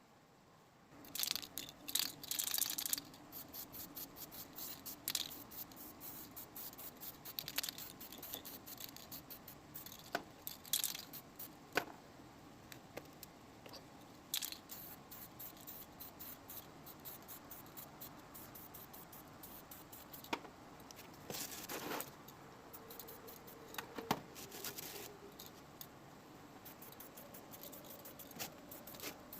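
Small metal parts clinking, rattling and scraping as they are handled and worked by hand, in irregular bursts with sharp clicks and short scrapes, busiest about a second in and again near the last third.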